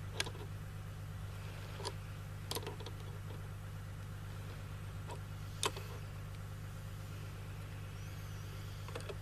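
A few sharp, separate clicks and taps of small metal parts and tools being handled while a rail section is tightened onto a rifle handguard, over a steady low hum.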